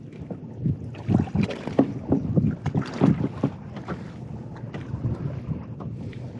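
A run of knocks and thumps from handling aboard a fishing boat, lasting about three seconds, then steady low wind noise on the microphone.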